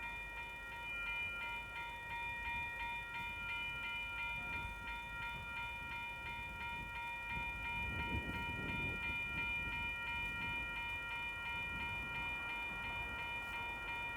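Western-Cullen-Hayes electronic level-crossing bells ringing in a fast, even repeating pattern, while a train rumbles past, loudest about eight seconds in.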